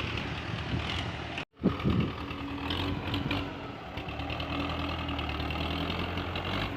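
Belarus 510 tractor's diesel engine idling steadily through its silencer. About a second and a half in, the sound cuts out briefly and there is a loud knock.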